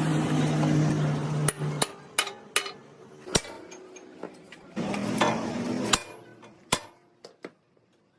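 A hammer striking metal, about eight sharp ringing blows at uneven intervals. A machine hums steadily for the first two seconds and again briefly about five seconds in.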